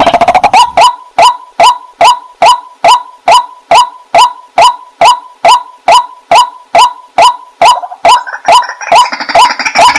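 Waterhen calling: a long, even series of short rising call notes, about three a second. A denser chatter of calls joins in near the end.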